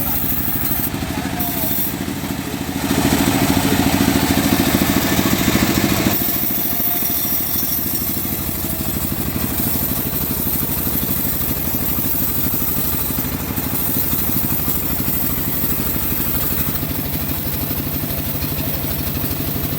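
Homemade bandsaw sawmill running steadily, with a louder, rougher stretch of about three seconds near the start.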